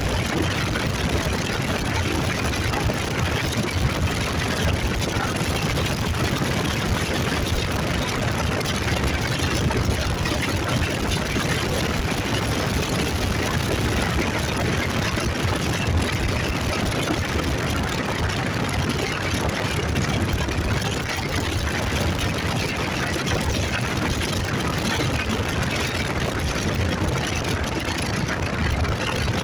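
Motorcycle running while being ridden: a steady engine sound under an even rushing noise, with no change in pace.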